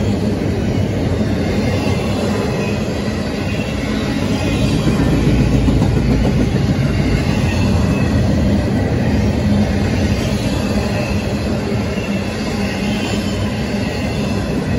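Double-stack intermodal freight cars rolling past: a steady, loud rumble and clatter of steel wheels on rail, with a faint wheel squeal now and then.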